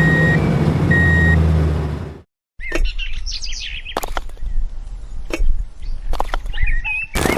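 A steady low engine-like hum with two short high beeps about a second apart. It cuts off, then come high chirps and a few sharp knocks.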